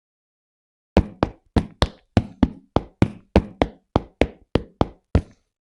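A rapid, even series of about fifteen sharp knocks, roughly three a second, starting about a second in after dead silence.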